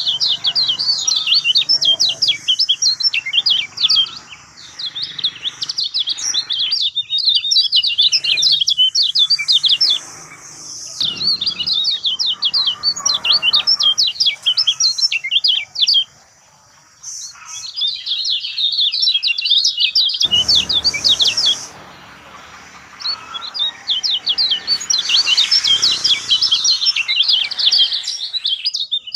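Kecial kuning songbird twittering: fast runs of high chirps that go on for several seconds at a time, with short breaks between the runs.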